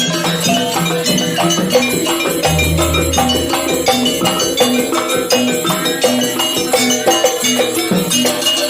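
Jaranan ensemble music: a dense, busy rhythm of percussion strokes under repeating pitched metallic notes, with a deep low note ringing for about a second some two and a half seconds in.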